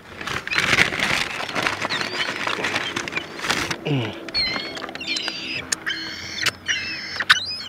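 A flock of seagulls crying, many high calls overlapping in the second half. The first half is a dense rushing noise.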